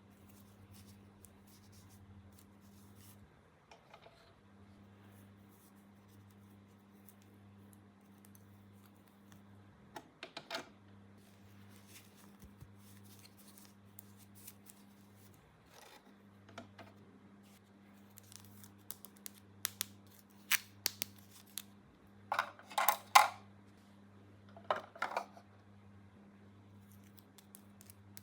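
Scissors snipping through packaging, with scattered light clicks and then a run of sharp snips and short crinkly bursts in the last third, over a faint steady electrical hum.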